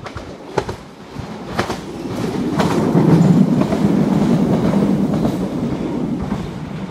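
Ex-London Underground 1938 tube-stock electric train (Island Line Class 483) passing close by. Its wheels click over the rail joints as it nears, then the rumble of wheels on rail swells loud about three seconds in and slowly fades as it runs past and away.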